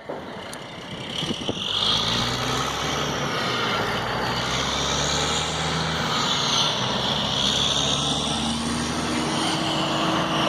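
Heavy diesel trucks hauling a multi-axle oversize load roll past, engines running with a steady drone and tyre noise that builds over the first two seconds, then holds.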